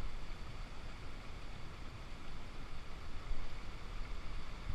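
Steady rush of falling water from a waterfall, with wind buffeting the microphone in low rumbles.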